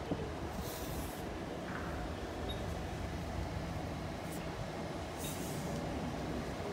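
Steady low rumble of a train heard in the distance from the station platform, growing slightly louder toward the end, with two short spells of high hiss.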